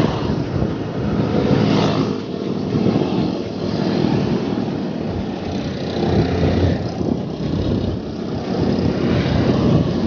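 Road noise while cycling: wind rumbling on the microphone mixed with the sound of motor traffic on the road, swelling and fading as vehicles pass.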